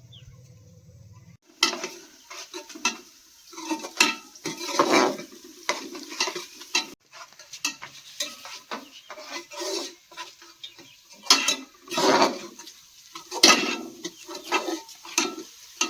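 A metal spoon stirring and scraping in a cooking pot, in irregular strokes that begin about a second and a half in.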